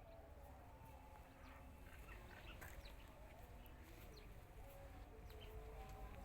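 Faint outdoor ambience: scattered short bird chirps over a low rumble.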